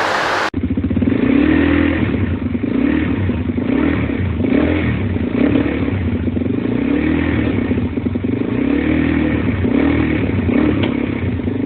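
Suzuki DR-Z400S single-cylinder four-stroke engine running in the bike, its throttle blipped so it revs up and drops back about once a second, showing the engine runs.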